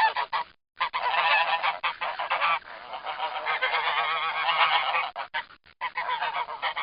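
Geese honking, several calls overlapping almost without pause, with a brief break about half a second in.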